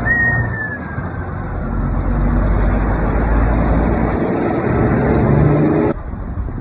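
Road vehicle and traffic noise, with a short falling whistle-like tone about a second long at the start; the sound drops abruptly about six seconds in.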